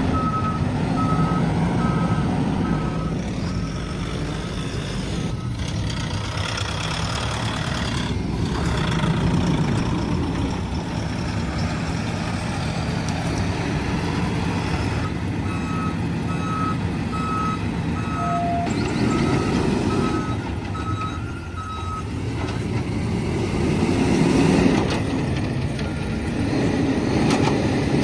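Heavy diesel earthmoving machine running with its reversing alarm beeping about twice a second, which is the sign that the machine is backing up. The beeping sounds at the start, stops for a while, and comes back for several seconds past the middle.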